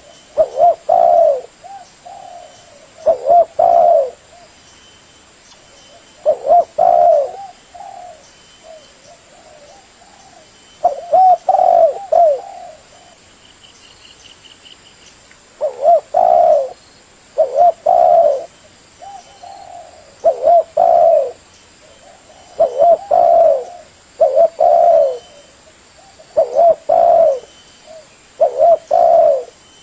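Spotted dove (tekukur) calling over and over: about eleven short phrases of low coos, each around a second long, come every two to three seconds, with fainter coos between them.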